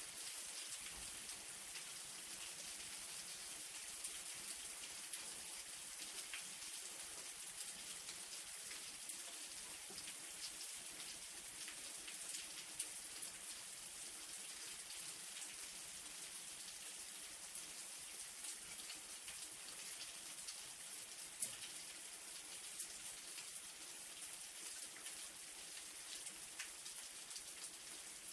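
Light rain falling steadily: a soft even hiss dotted with the ticks of single drops hitting a surface.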